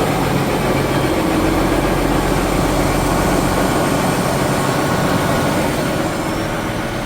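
Diesel engine of a farm machine running steadily just after a cold start in about 15-degree weather, with a rapid, even firing rhythm.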